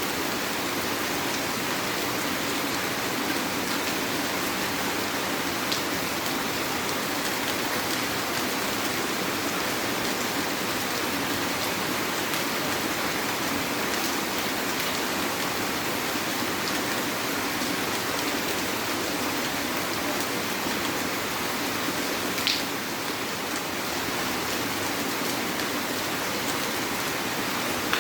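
Heavy rain falling steadily, a dense even patter with a few louder single drop hits. There is one short sharp click about three quarters of the way through.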